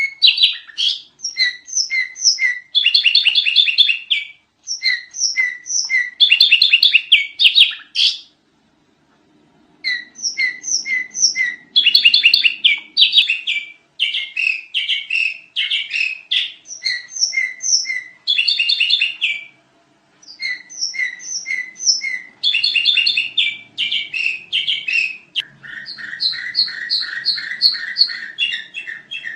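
Sooty-headed bulbul (kutilang) singing: rapid, busy phrases of repeated sharp chirps. The song breaks off briefly about eight seconds in and again about twenty seconds in.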